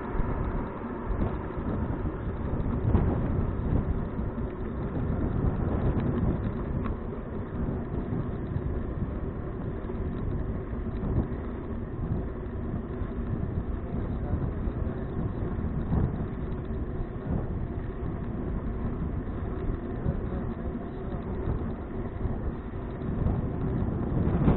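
Wind rumbling on an action camera's microphone with tyre and road noise from a bicycle rolling along, steady and without breaks.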